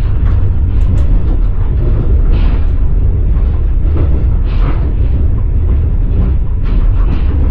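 Passenger train wheels clattering on the rails with a loud, steady low rumble, heard from inside a moving carriage, with faint irregular knocks.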